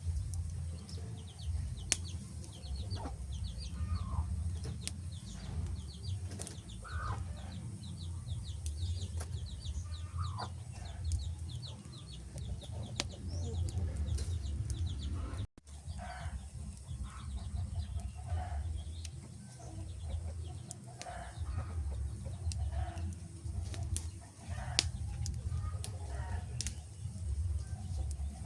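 Wood fire crackling, with sharp pops over a steady low rumble. Short mid-pitched calls come at intervals. The sound cuts out for an instant about halfway.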